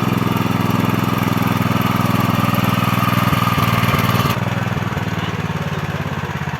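A small engine running steadily. The hiss above it cuts off abruptly about four seconds in, and the engine sound carries on a little quieter.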